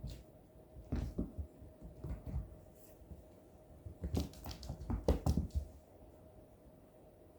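Cats at play: scattered soft thumps, scuffles and scratchy clicks on the floor, in small clusters about a second in, around two seconds, and a busier run between four and five and a half seconds, then quieter.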